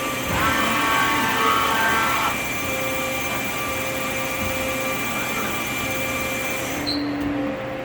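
Yama Seiki GLS-1500L CNC turning center running, a steady machine hum with several whining tones. A louder whine of several tones starts about half a second in and stops about two seconds later. The high hiss cuts off suddenly near the end.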